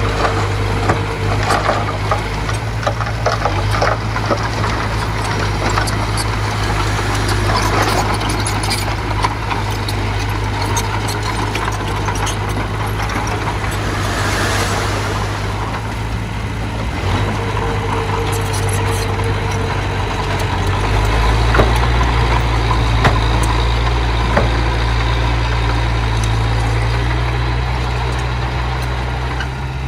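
Small bulldozer's diesel engine running steadily, with scattered metallic clanks. About two-thirds of the way in, the engine note deepens and gets louder.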